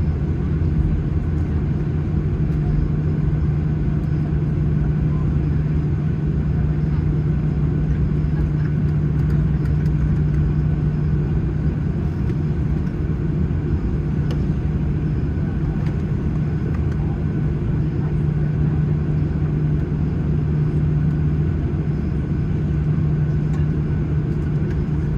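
Cabin noise of a Boeing 737-800 taxiing at idle power: a steady low drone with a constant low hum.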